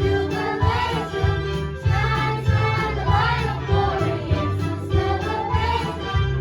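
Holiday song: a group of voices singing over a steady beat and bass line.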